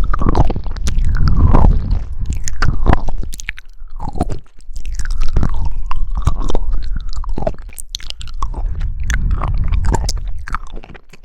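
Jelly being chewed close to the microphone: continuous wet squelching and slurping with many small sharp clicks and crunchy bites, coming in irregular clusters with brief lulls.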